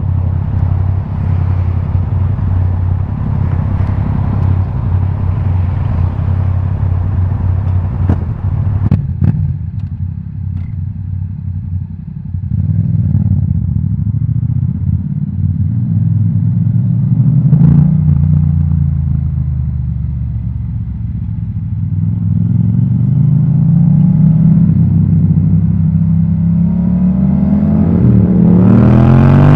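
Yamaha MT-07's parallel-twin engine through an Akrapovič titanium exhaust, idling steadily, then pulling away. The revs rise and fall about halfway through and climb again in the second half, rising steeply near the end as the bike accelerates. A few sharp clicks come about eight to nine seconds in.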